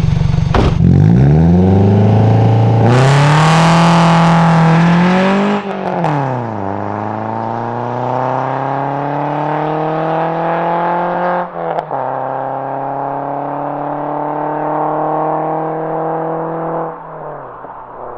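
Peugeot 206 GT's 2.0-litre 16-valve four-cylinder, through a straight-through Group N rally exhaust, pulling away hard from a standstill: the revs climb, drop at a gear change about five and a half seconds in, climb again with another brief shift at about twelve seconds, then fall away near the end as the car gets farther off.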